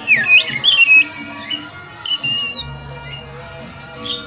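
Oriental magpie-robin (kacer) song: loud, sharp whistled notes sliding up and down, in a quick burst at the start and shorter phrases about two seconds in and at the end, over background music.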